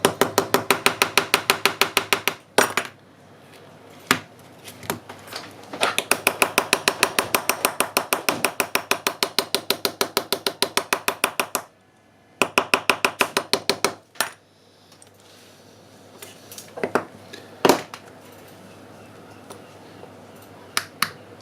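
Rapid, even tapping with a ringing tone, about nine strikes a second, in three runs, the middle one lasting about six seconds. A few separate knocks follow near the end.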